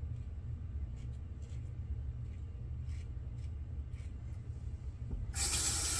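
Steady low hum with faint light rubbing, then about five seconds in a loud hiss of water rushing from a sink tap, which eases after about a second.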